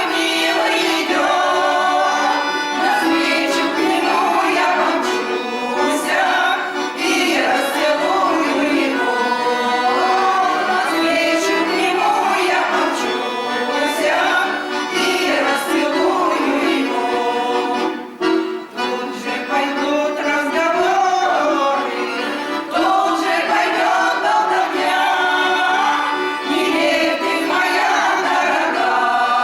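Group of voices singing to accordion accompaniment, with a brief drop in level about two-thirds of the way through.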